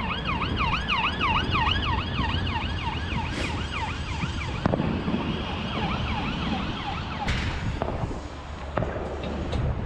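Emergency-vehicle siren sounding a fast yelp, rising and falling about three times a second, fading away about halfway through. A few sharp, distant firework cracks go off, the loudest about seven seconds in.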